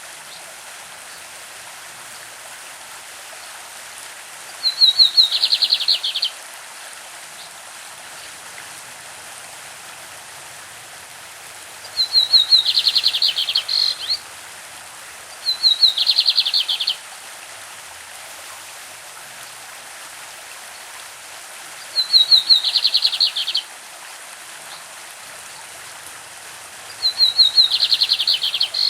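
Lined seedeater (bigodinho) singing the classic song type in five short phrases, each a quick run of rapid high notes, with several seconds between phrases. Under the phrases runs the steady rush of a stream.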